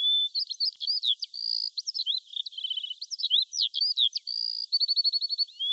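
Birdsong: a rapid run of high, clear whistles, slurred up-and-down chirps and short fast trills. The same sequence of phrases comes round again after about five and a half seconds, as in a looped recording.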